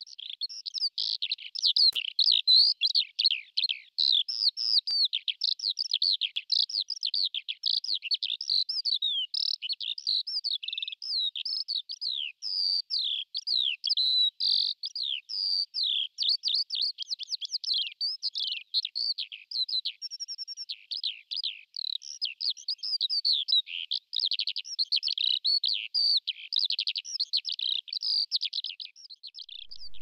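Songbird singing: a rapid, unbroken stream of high chirps and trills without pauses.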